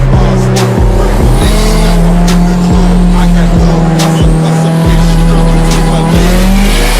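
Cars drifting, engines running hard with tyre squeal, mixed with loud music.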